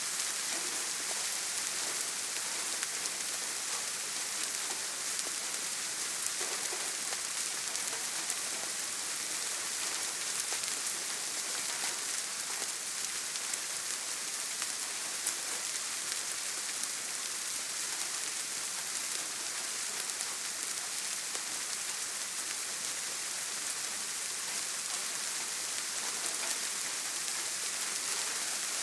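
Heavy rain on a tin roof, falling steadily as a dense, even hiss with fine scattered drop ticks.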